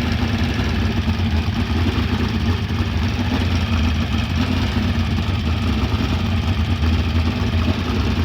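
Race car engine idling steadily, holding an even, low note with no revving.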